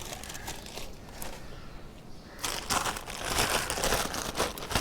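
Plastic sheet crinkling and rustling as it is wrapped over the alternator, starting about halfway in after a quieter stretch.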